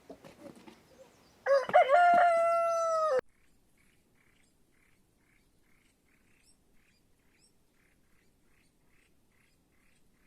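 A rooster crows once, a loud, held call of nearly two seconds that cuts off abruptly. It is followed by faint, evenly repeated chirping of small birds.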